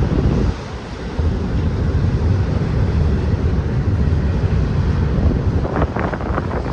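Strong gusting wind buffeting the microphone over the low rumble of a passing freight train. The wind drops briefly about half a second in, and a few short, sharper sounds come near the end.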